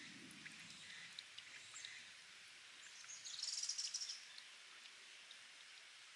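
Spring water trickling and dripping off rock, a faint steady hiss with scattered drips. About three seconds in, a bird gives a rapid high trill lasting about a second, the loudest sound.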